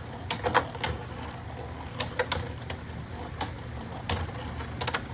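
Two Beyblade Burst spinning tops battling in a plastic stadium: irregular sharp clacks as they collide and knock against the stadium walls, over a faint steady whir.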